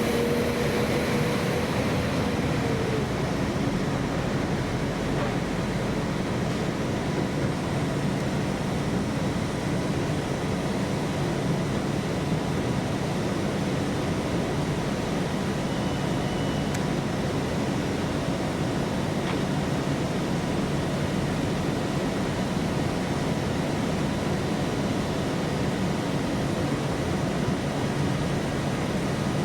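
Steady rumbling noise of a train at the station, with a high whine that fades out about two to three seconds in.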